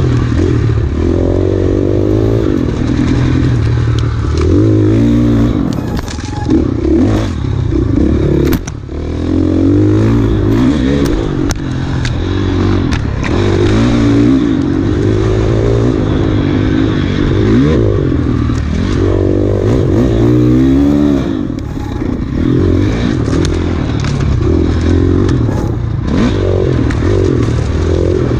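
Enduro dirt bike engine running hard under the rider, its pitch rising and falling over and over as the throttle opens and closes and the gears change, with short dips around 6 and 9 seconds in. Scattered clicks and clatter from the bike over rough trail run through it.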